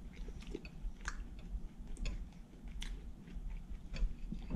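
A person chewing a spoonful of fish chowder, with scattered light clicks of a metal spoon against the bowl.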